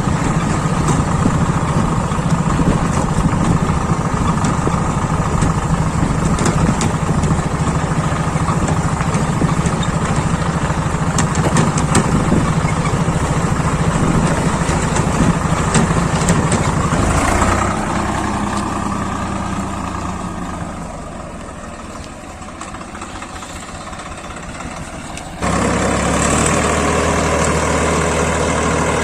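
Swaraj 855 FE tractor's diesel engine running steadily. About two-thirds of the way through the engine note changes and fades lower, then it comes back suddenly at full level near the end.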